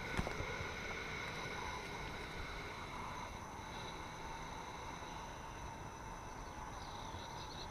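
Faint outdoor ambience: a steady low hiss with a few thin steady high tones, one short click about a quarter-second in, and a quick run of faint high chirps near the end.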